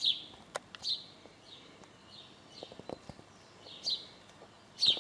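A small bird chirping: about seven short, slightly falling chirps at irregular intervals, the loudest right at the start and near the end. A few faint clicks come in between.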